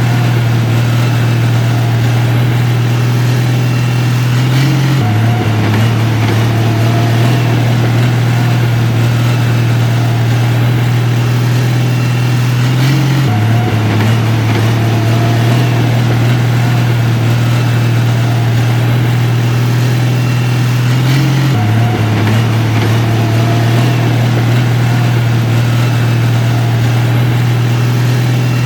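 Heavy diesel engine of construction machinery running steadily in a loud, low drone, with a small shift in pitch every eight seconds or so.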